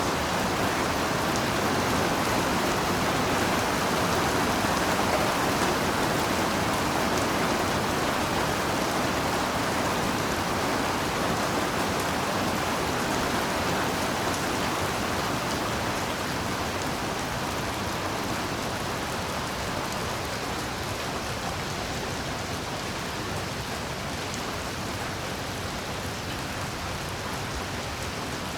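Heavy rain falling steadily: a dense, even hiss of downpour with no thunder, easing slightly in loudness over the second half.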